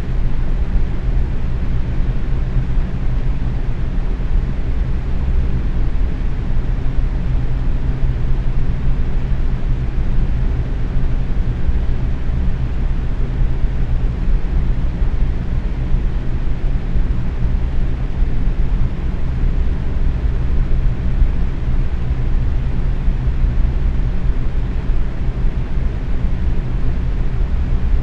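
Box fan running steadily at medium speed, a constant low whooshing rush of moving air with a faint steady hum.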